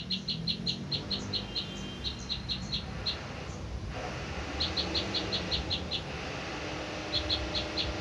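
A small bird calling in quick runs of short, high chirps, about five a second, three runs with pauses between.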